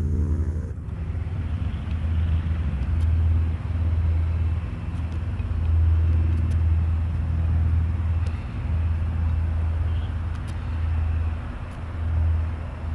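Steady low drone of military aircraft engines, with a slow swelling and fading every second or two over a constant rushing noise.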